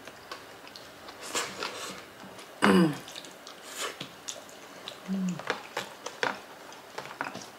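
Close-up mouth sounds of eating rice and kare-kare sauce by hand: wet chewing, lip smacks and small clicks. A short vocal sound falling in pitch comes about three seconds in, and a brief hummed 'mm' just after five seconds.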